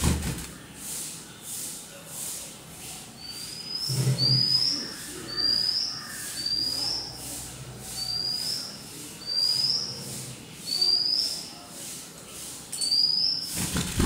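A bird's short, high chirp, each one a quick upward sweep, repeated about nine times at roughly one-second intervals, starting a few seconds in. A sharp knock sounds at the very start and again at the end.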